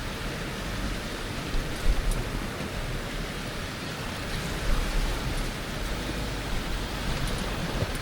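Steady rushing noise of a 4x4 driving a rough dirt trail, tyres crunching over gravel and rock over a low rumble, with a couple of louder bumps about two and five seconds in.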